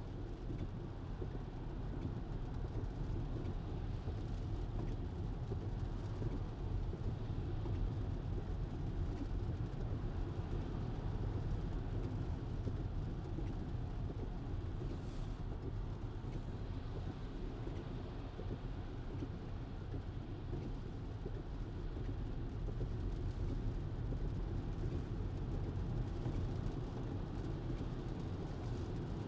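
Steady road and tyre noise heard inside a Tesla's cabin while it drives on a wet, rain-soaked road. There is no engine sound, only an even low rumble.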